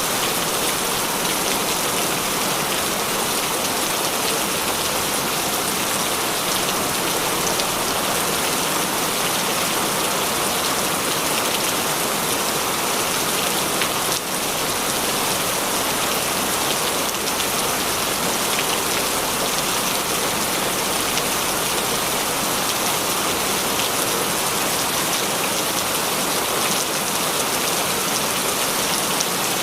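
Heavy rain falling steadily: a dense, even hiss of rain with scattered ticks of individual drops.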